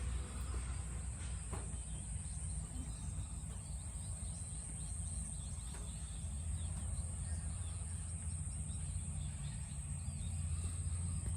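A steady high-pitched drone from a chorus of insects, such as crickets, over a low rumble, with a few faint short chirps.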